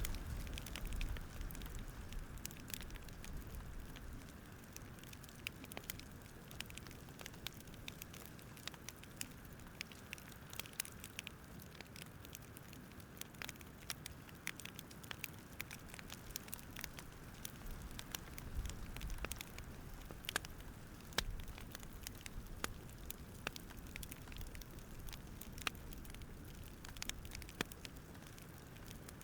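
Wood fire crackling, with scattered irregular pops over a soft low rumble that swells near the start and again about two-thirds of the way through.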